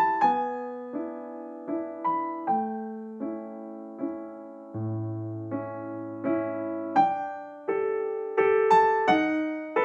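Background music: a slow piano piece, single notes and chords struck about every half second to a second and left to ring, with a held low bass note partway through.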